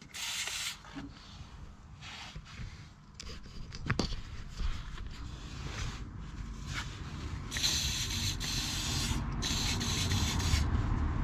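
Rubbing and hissing strokes from hand work on the van's front suspension, with one sharp click about four seconds in and longer hissing passes near the end.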